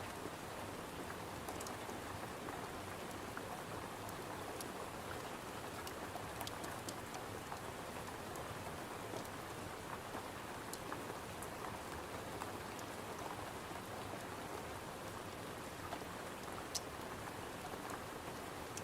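Steady rain pattering, with occasional faint sharp clicks scattered through it.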